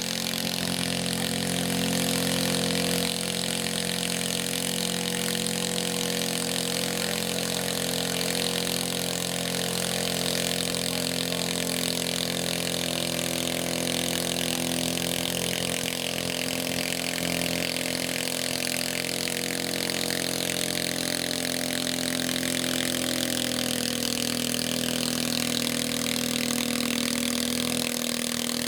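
Garden tractor engine running at a steady speed.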